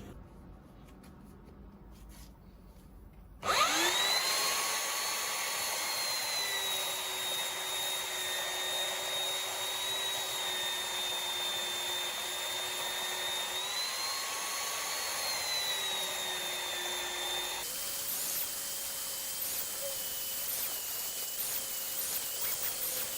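Electric power tool starting up about three and a half seconds in with a quick rising whine, then running at a steady high whine. Its pitch sags briefly and recovers, and about eighteen seconds in the sound changes abruptly to a higher, thinner whine.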